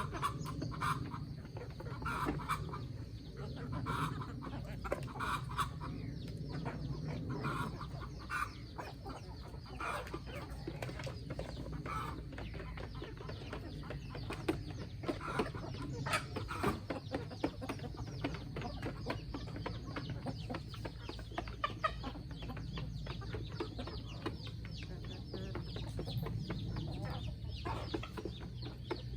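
Chickens clucking, the calls most frequent in the first several seconds, with many short clicks and ticks throughout.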